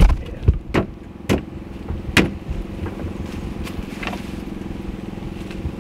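A few sharp wooden knocks and bumps as a plywood bed platform is shifted and set down in an SUV's cargo area, the loudest about two seconds in, with fainter taps later. A steady low hum runs underneath.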